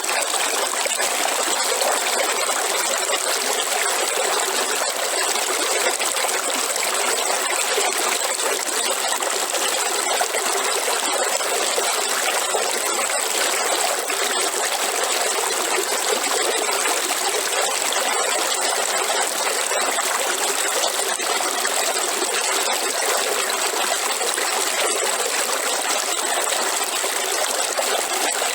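River water running over rocks: a steady rushing and splashing, with small trickles and splashes flickering through it.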